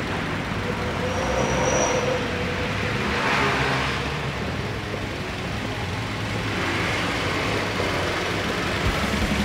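Toyota Vios VVT-i four-cylinder petrol engine running at idle with the bonnet open: a steady low hum. A brief high whistle comes about a second in, and a short rush of noise about three seconds in.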